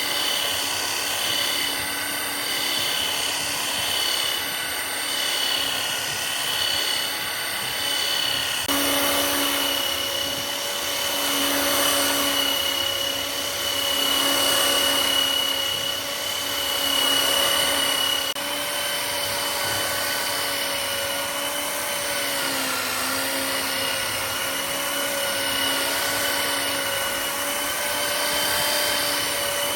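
Electric power tool motor running steadily with a high whine, its pitch sagging briefly about two thirds of the way through as if under load; the sound changes abruptly about 9 and 18 seconds in.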